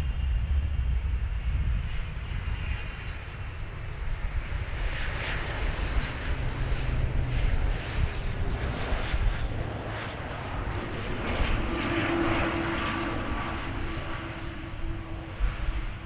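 Jet airliner's engines running, a continuous roar over a low rumble. The mid-range roar swells from about a third of the way in, and a faint steady whine comes in later.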